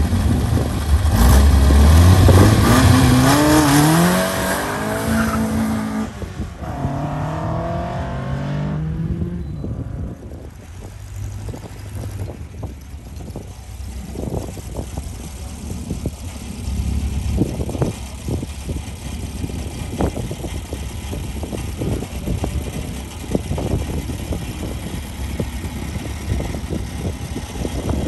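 Seven-style open sports car's engine revving hard as it pulls away from a standing start, climbing in pitch through a gear change in the first several seconds. It then grows fainter as the car moves away and runs on at a distance.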